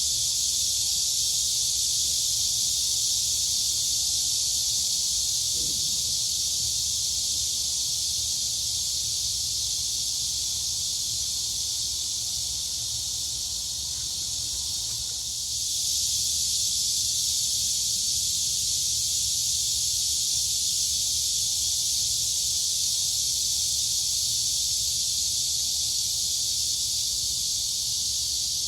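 Dense chorus of crickets and cicadas, a steady high-pitched shrill drone that eases a little about halfway through and then swells back to full strength.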